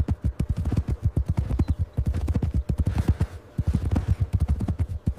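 Horse hooves striking the ground in a fast, dense run of hoofbeats, many strikes a second.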